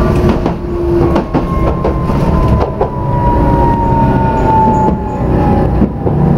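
Tokyu Setagaya Line car running on its rails, heard from inside: a steady low rumble with scattered clicks from the wheels and a thin motor whine that falls slowly in pitch as the car slows.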